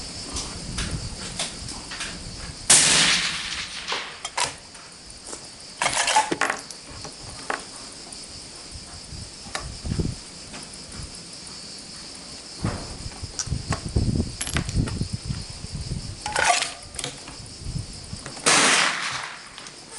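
Four suppressed 6.5 Creedmoor rifle shots, widely spaced, with fainter clicks and knocks between them. A steady insect buzz runs underneath, and wind rumbles on the microphone.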